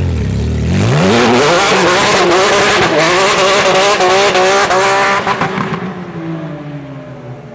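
Porsche 997 GT3 RS flat-six engine through a Ferrita straight-pipe exhaust, revving hard. The pitch dips briefly, climbs steadily for about four seconds, then falls away near the end as the revs drop.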